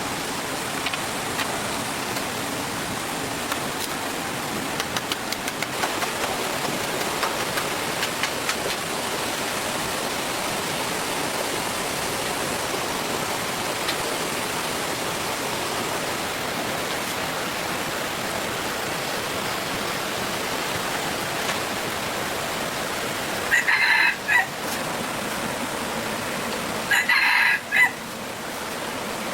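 A rooster crowing twice, each crow about a second long, the second about three seconds after the first, over a steady rushing hiss.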